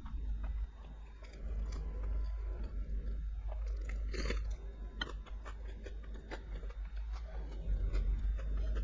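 Close-miked eating: a person biting and chewing food, with many short crunchy clicks.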